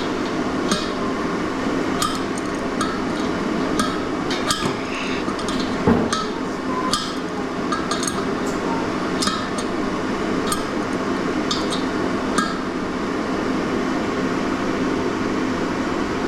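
Sharp strikes of a hand tool chopping and breaking up ice on a walkway, irregular at roughly one a second. The loudest strike comes about six seconds in, and the strikes stop about three-quarters of the way through. A steady hum runs underneath.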